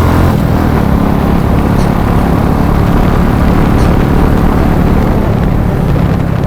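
Motorcycle running while being ridden, a steady loud rumble.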